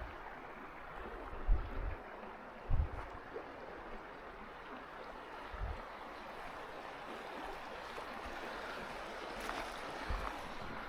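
Swollen river rushing steadily, its level up after heavy storms. A few brief low thumps break in along the way.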